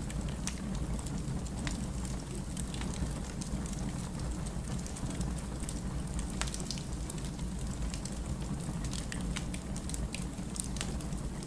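Firewood burning in a fireplace: irregular sharp crackles and pops from the logs over a steady low rumble.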